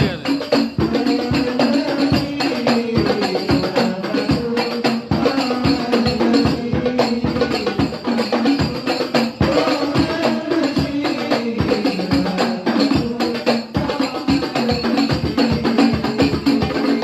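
Banjari percussion ensemble led by darbuka drums, playing a fast, dense rhythm of strokes.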